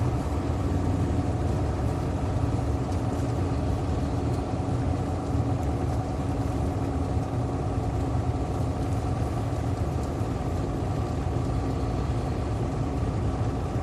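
Heavy semi-truck engine running steadily, heard from inside the cab as a constant low drone.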